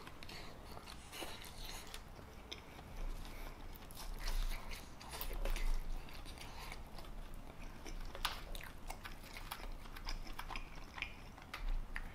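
A person biting and chewing macaroni and cheese, with irregular short mouth clicks.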